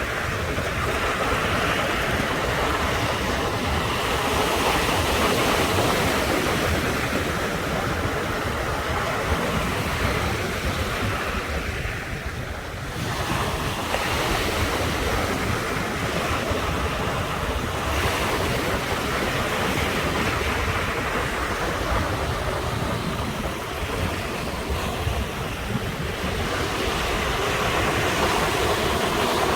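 Ocean surf washing continuously onto the shore, swelling and easing with each wave, with a brief lull about twelve seconds in.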